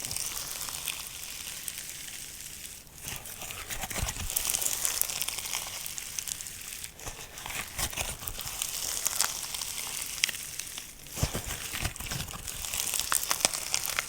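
Stiff, unstretchy slime being squeezed and kneaded by hand, giving a dense crackle of small pops and clicks, with brief lulls about every four seconds.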